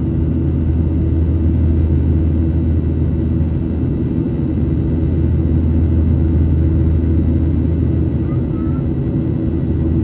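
Steady, loud low rumble of a Boeing 737-900 in flight, its CFM56-7B turbofans and airflow heard as an even drone with a few steady tones above it.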